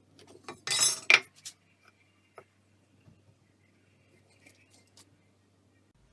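Metal parts being handled: a short metallic scrape, then a sharp clink about a second in, followed by a few light taps and clicks.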